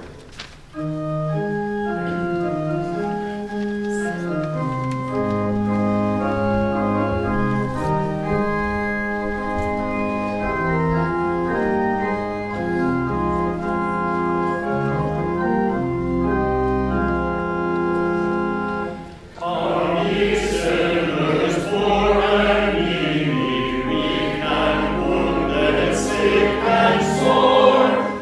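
Church organ playing the introduction to a hymn in steady held chords. About two-thirds of the way through, a congregation comes in singing the hymn with the organ.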